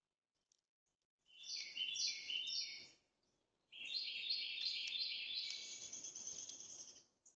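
Songbird singing in two runs of rapid, repeated high notes: a short run about a second in, then a longer one from about the middle almost to the end.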